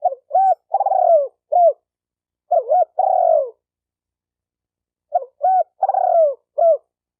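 Spotted dove cooing in three short phrases, each a few clipped coos with a longer, falling coo, set between stretches of silence. It is a lure-call recording played to provoke other doves.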